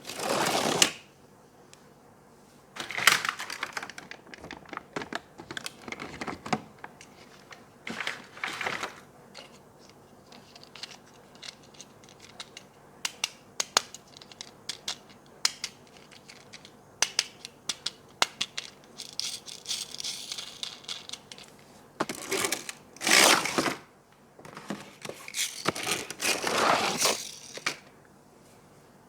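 Toy packaging being opened and handled: several rustling, tearing swishes of plastic and cardboard, with many sharp plastic clicks and rattles in between.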